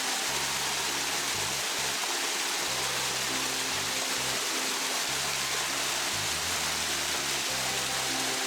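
Steady rush of a waterfall, with background music of held low notes that change every second or so.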